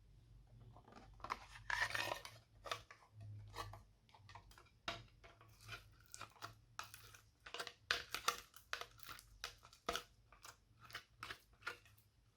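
Slime being squished and mixed by hand, giving an irregular string of sticky clicks, pops and crackles, with a longer crackling squelch about two seconds in.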